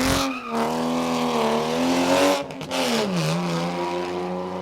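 Historic rally car's engine pulling hard, its note rising at first. The note breaks briefly about halfway through, then drops and holds lower and steady.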